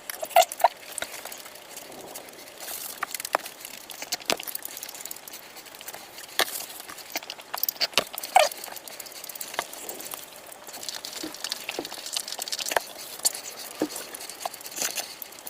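Close-miked eating: chewing and mouth smacks, with irregular clicks and crackles and a few louder wet smacks near the start and about eight seconds in.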